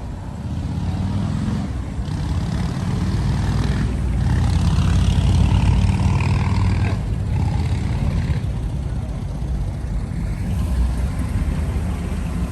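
A lowrider car's engine running with a low, steady rumble as the car rolls slowly past, growing louder toward the middle and then easing off.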